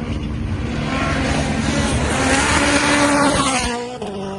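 Rally1 rally car's turbocharged engine at full throttle as the car approaches and passes, the engine pitch falling as it goes by about three and a half seconds in.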